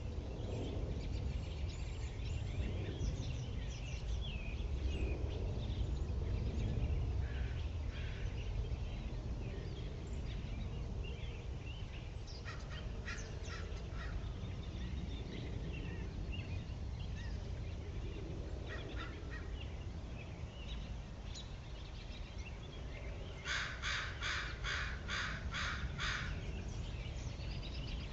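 Backyard birds calling on and off over a steady low rumble, with a quick run of about seven harsh calls near the end.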